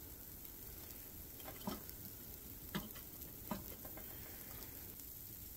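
Camp wood stove with a coffee pot on it: a faint, steady sizzling hiss with a few soft crackles or ticks as the fire is stoked hot.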